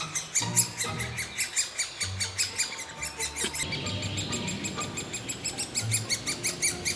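Great spotted woodpecker nestlings begging from the nest hole: a continuous chatter of short, high-pitched calls, several a second.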